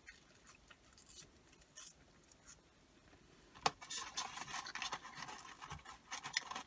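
Close-miked chewing of a hamburger, with crackling of its paper wrapper in the hand. Faint at first, then a sharp click at about three and a half seconds and denser crackly rustling after that.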